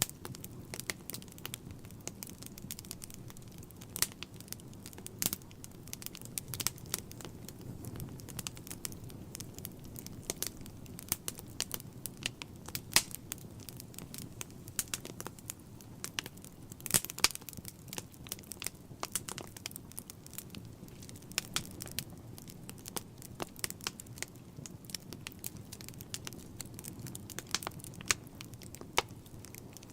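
Fire burning in a fireplace: irregular crackles and pops over a steady low rumble of flames, with a few louder snaps.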